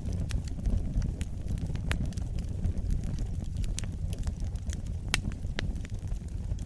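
Wood fire burning: a steady low rumble of flames with frequent sharp crackles and pops, the loudest pop about five seconds in.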